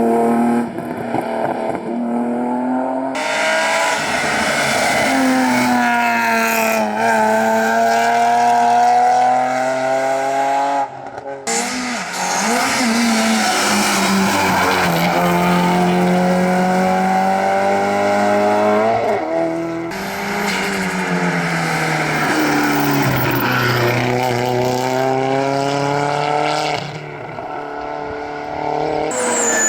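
Rally cars driven hard on a special stage, several passes one after another. The engines rev up and drop back through gear changes as the cars accelerate, brake and pass.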